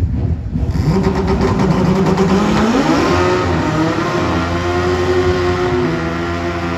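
Drag racing motorcycle engine at full throttle, accelerating down the strip. The pitch climbs, rises again about three seconds in, then holds high and eases slightly near the end.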